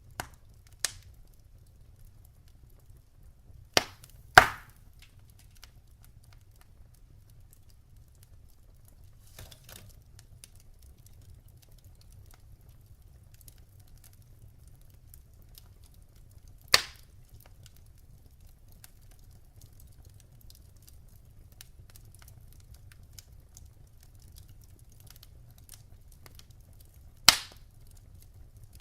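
Logs burning in a fireplace: a low steady rumble with faint crackling and occasional sharp pops from the wood. There are two pops at the start, two about four seconds in (the second the loudest), one about seventeen seconds in and one near the end.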